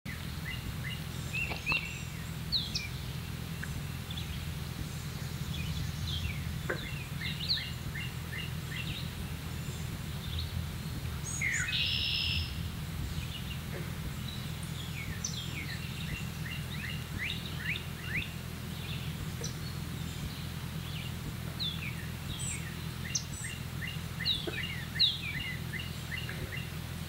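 Songbirds chirping and singing, many short down-slurred notes scattered throughout, with a buzzy trill about twelve seconds in, over a steady low rumble.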